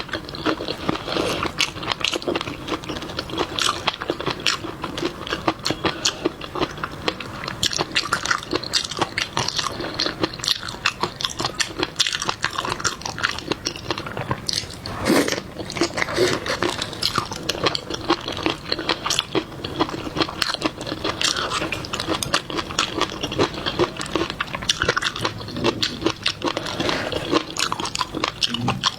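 Close-miked eating of seafood: wet chewing, lip smacking and crunchy bites in quick, irregular succession, with one sharper crunch about halfway through.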